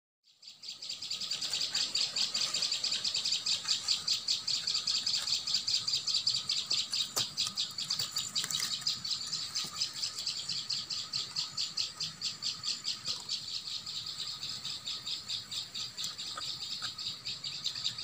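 A bird calling nonstop in a rapid series of high, sharp chirps, several a second.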